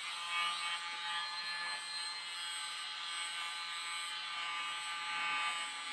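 Mini electric air blower running steadily with a high whine over a rush of air, pushing wet acrylic paint across a canvas.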